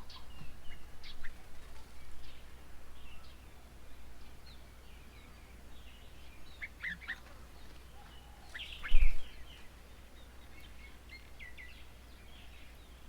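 Several small birds chirping and calling at a bird table, short notes coming and going throughout. A single brief, loud thump about nine seconds in.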